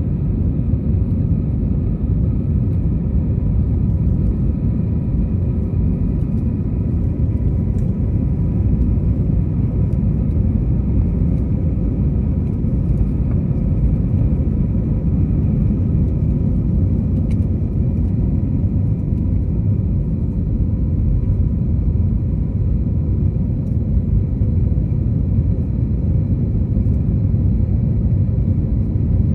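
Steady low roar of an Airbus A321neo's engines and airflow heard inside the passenger cabin, with a few faint steady tones above it.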